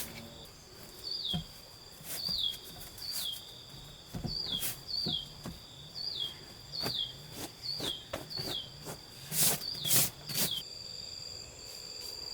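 Outdoor rural ambience: a short, high chirp that glides downward, repeated about once a second some dozen times, with a steady high insect-like whine setting in near the end. Scattered sharp knocks or taps run through it, the loudest two close together near the end.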